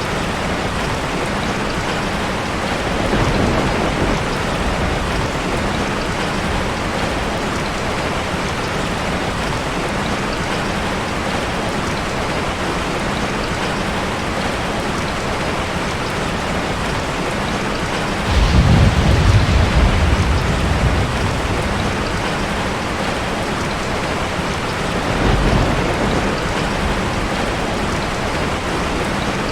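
Steady heavy rain falling, with three low rumbles of distant thunder rolling in: a soft one a few seconds in, the loudest about two-thirds of the way through, and a shorter one near the end.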